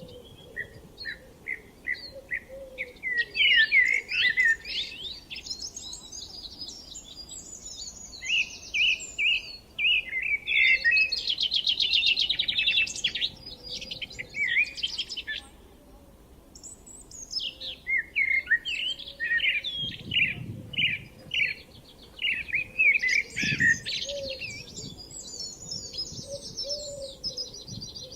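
Songbirds singing in bursts of quick chirps and fast trills, with short pauses between phrases. A soft low rumble comes twice in the second half.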